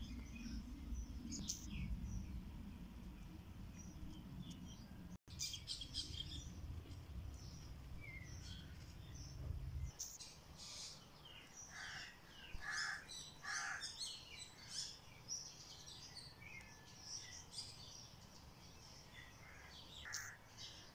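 Songbirds chirping and calling, with many short high notes that come thickest in the second half. A low rumble sits underneath for the first half and stops abruptly about halfway through.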